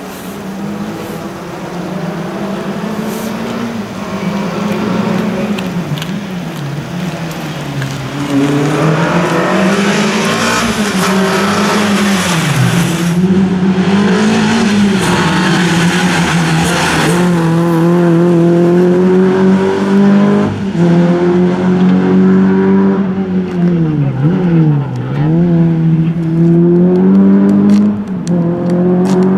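Renault Clio competition car's engine revving hard through slalom chicanes. Its pitch climbs and drops again and again with throttle and gear changes, and falls away sharply twice.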